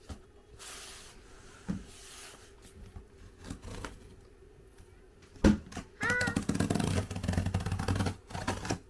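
A cardboard shipping box and its packaging being handled and opened: soft rustling, a single sharp knock about halfway through, then about two seconds of rapid crackling and scraping.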